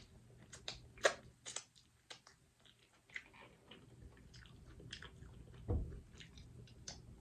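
Close-miked chewing and biting of seafood, with wet mouth clicks and a few sharp clicks, the sharpest about a second in. A dull low thump comes just before six seconds.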